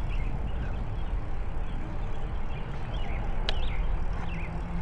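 Wind rumbling on the camera microphone and tyre noise from an e-bike rolling along a paved trail, with a sharp click about three and a half seconds in.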